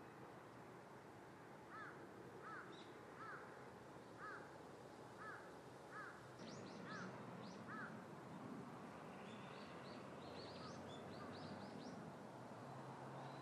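Birds calling over a faint outdoor hiss: a string of eight short, arched calls under a second apart, overlapped near their end and then followed by quicker, higher-pitched chirps.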